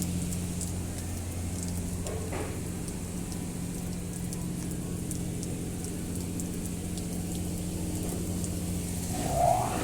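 Steady low mechanical hum at a car wash, with faint light ticking over it; near the end a short rising whine.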